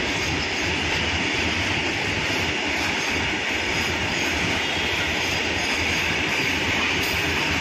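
Freight train of open wagons rolling past: a steady, even noise of steel wheels running on the rails, with no single knock or horn standing out.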